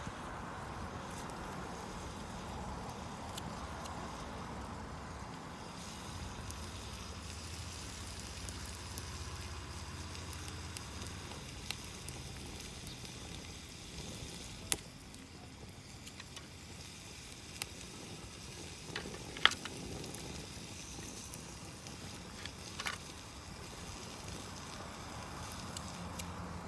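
Wood campfire burning with scattered sharp crackles and pops over a low steady hiss, with meat sizzling as it grills over it.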